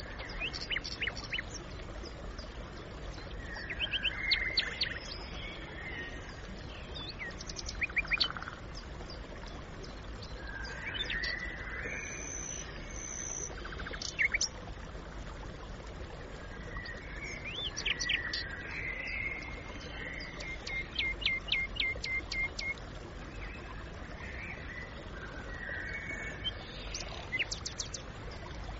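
Birds chirping and calling in short scattered notes, with a quick run of evenly spaced notes about three-quarters of the way through, over a steady low background hiss.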